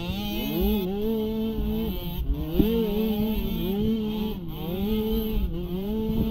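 Small youth ATV engine racing, its pitch climbing and dropping back again and again, about five or six times, as the throttle is opened and eased off.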